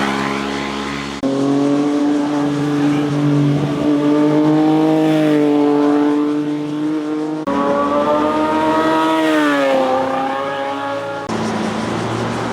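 Motorcycle engines revving as bikes ride past, their pitch falling and rising again. The sound cuts abruptly to another bike about a second in, past the middle, and near the end.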